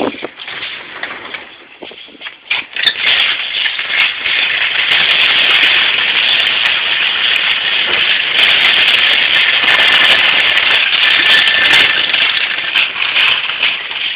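Shopping cart rattling loudly as it is pushed along, with a continuous clattering hiss of wheels and wire basket that builds up about two and a half seconds in and holds steady.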